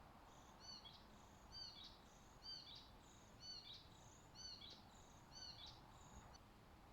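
A songbird singing, faintly: a short, high, chirping phrase repeated about once a second, seven or so times, over a quiet background hiss, stopping shortly before the end.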